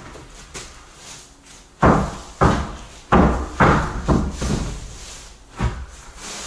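Heavy knocks and thumps of 18 mm plywood floor sheets being handled and set down on wooden joists. There are about six irregular hits, starting about two seconds in, each with a short boomy ring.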